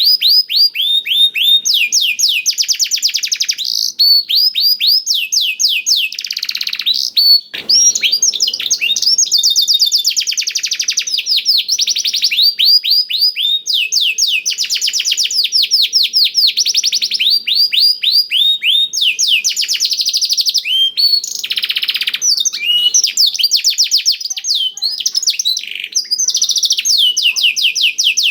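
Domestic canary singing a long, unbroken song of fast trills: rows of quick downward-sweeping notes in phrases of a second or two, each following the last with hardly a pause. The song is a canary's with black-throated canary (blackthroat) phrases worked in.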